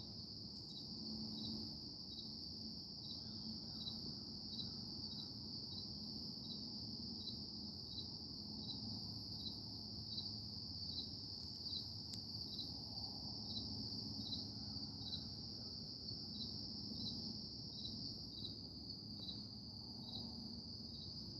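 Faint, steady high-pitched insect trilling in rural surroundings, with a regular chirp a little under twice a second and a faint low hum underneath.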